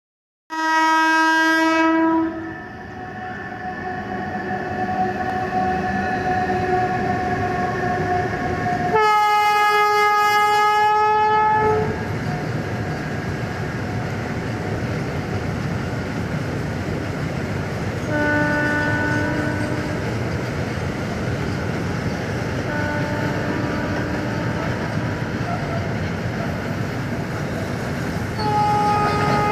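Freight train hauled by an Indian Railways WAG-12B electric locomotive, sounding its multi-tone horn in long blasts: one about half a second in, a louder one around nine seconds, and another near the end. Between the blasts the wagons rumble steadily past on the rails.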